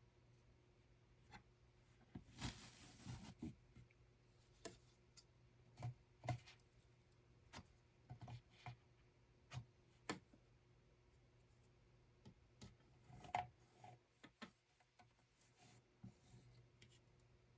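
Quiet handwork at a weaving loom: scattered small clicks and taps at irregular intervals, with a short rustle about two seconds in, over a faint steady hum.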